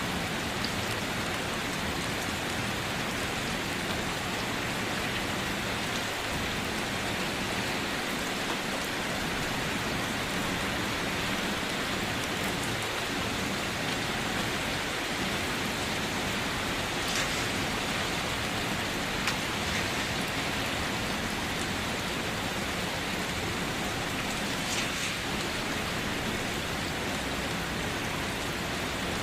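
Steady rain falling on a surface, with the occasional louder drop.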